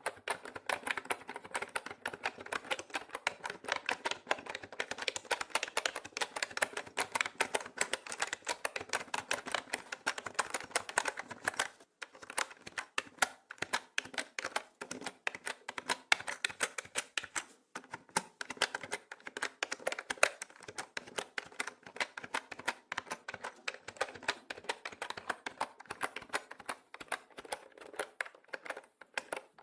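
Mechanical keyboard keys being typed on in a fast, continuous stream of clicks, with brief pauses about 12 and 17 seconds in.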